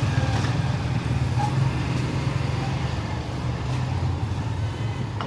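Motorcycle engine of a tricycle running, a steady low rumble that eases slightly after the first couple of seconds.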